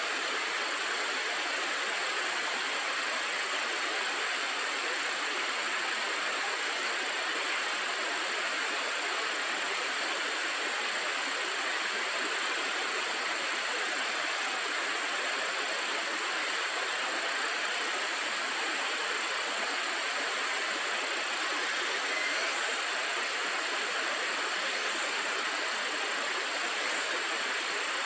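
Steady rushing of a river's flowing water, an even hiss that holds at one level throughout.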